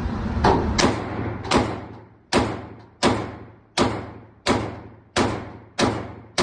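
About ten pistol shots from a SIG P365 fired in a steady string, roughly one every two-thirds of a second after a quicker opening pair, each a sharp crack with an echoing tail.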